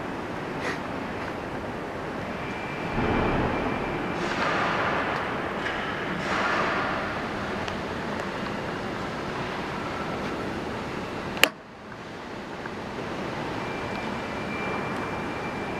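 Steady background noise with a few brief louder swells, and one sharp click about eleven and a half seconds in, after which the level drops briefly.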